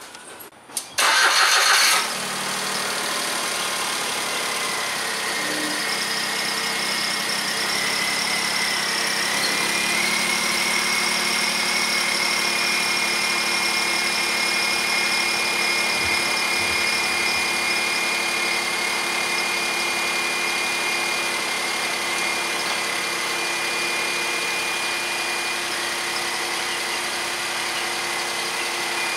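Smart fortwo car engine starting with a short loud burst about a second in, then idling steadily with a thin high whine.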